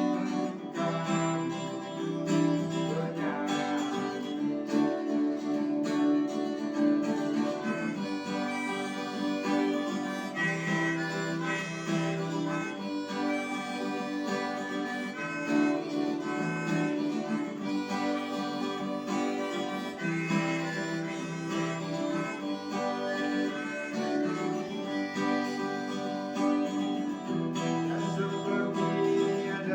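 Acoustic guitar strummed with a harmonica playing the melody over it.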